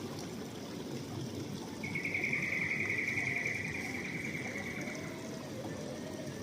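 Quiet rainforest ambience with a high, pulsing trill that starts about two seconds in, lasts about three seconds and drifts slightly lower in pitch as it fades.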